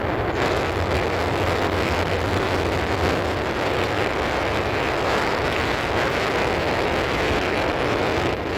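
Steady road noise of a moving vehicle, with wind rushing over the microphone.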